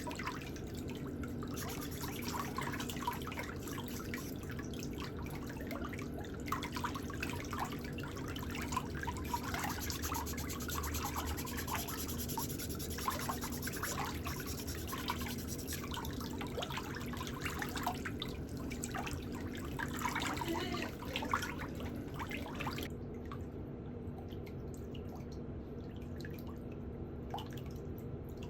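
Irregular small wet clicks and drips over a steady low hum, the clicks thinning out near the end.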